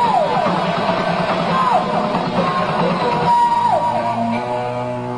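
Heavy metal band playing live with a loud, dense sound. An electric guitar falls in pitch three times, then settles into held notes over a steadier drone in the last couple of seconds.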